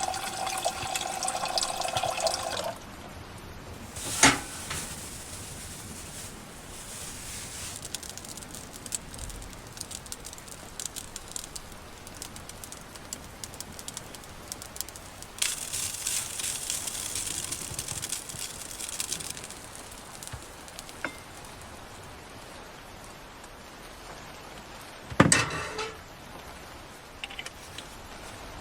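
Water running into a container for the first few seconds, with a ringing tone as it fills. Then small knocks and clatter as things are handled, with two sharp knocks and a few seconds of hissing water in between.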